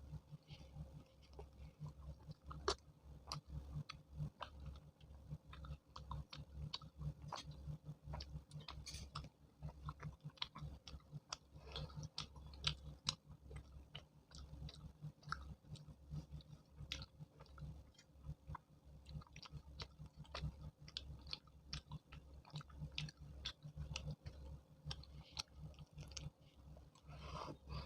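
A person chewing chole bhature, fried bread with chickpea curry, with many quick, irregular wet mouth clicks and smacks.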